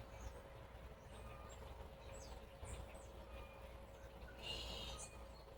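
Faint background birdsong: scattered short, high chirps with a brief denser burst of chirping about four and a half seconds in, over a steady low hum.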